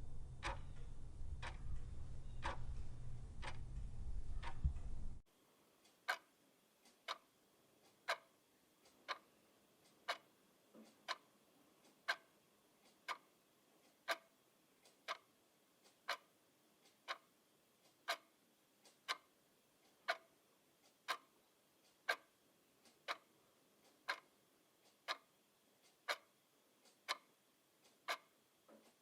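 Clock ticking. For the first five seconds quicker ticks run over a low hum, then a sudden cut changes to a clock ticking about once a second against near silence.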